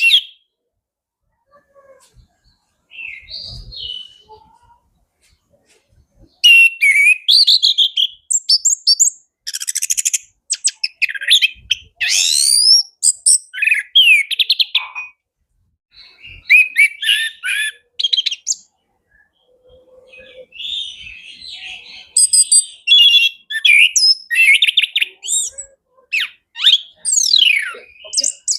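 Chestnut-capped thrush (anis kembang) singing: after a few soft, scattered notes, long runs of rapid, varied high whistles, trills and sliding notes, broken by a brief pause about two-thirds of the way in.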